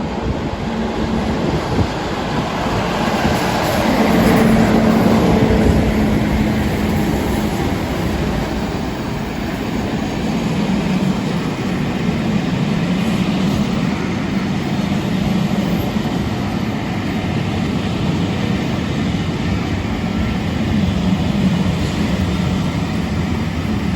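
Two Class 50 diesel locomotives working together, their English Electric V16 engines running in a steady drone as the train comes in. The sound swells to its loudest about four to six seconds in, then holds steady with the engine pitch wavering slightly.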